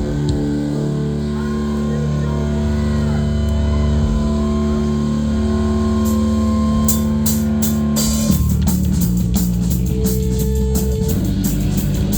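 Live rock band starting a song with no vocals yet: guitar chords ring out and are held, then drum and cymbal hits come in about seven seconds in, and the full band with drums kicks in about a second later.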